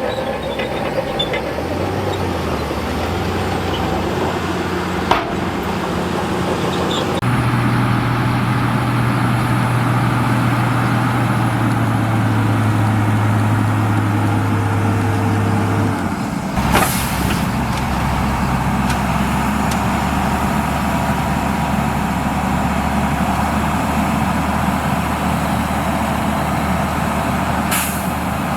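Heavy diesel engine of earthmoving machinery on a sand fill running steadily. It works harder and louder for about nine seconds, then eases back. Two short air hisses come about two-thirds of the way in and near the end.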